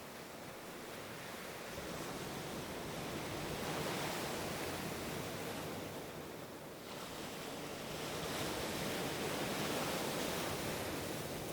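Ocean waves washing on a shore in a slow, steady surge, swelling twice and easing back between.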